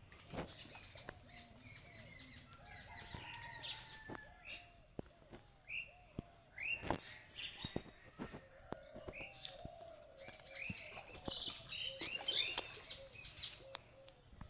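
Several birds chirping and calling outdoors, many short overlapping chirps, with a lower call repeated several times in the second half.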